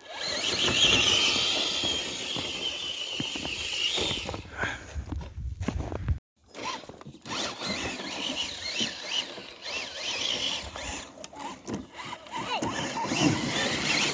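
Radio-controlled crawler truck's electric motor and gears whining as it drives, the pitch rising and falling with the throttle.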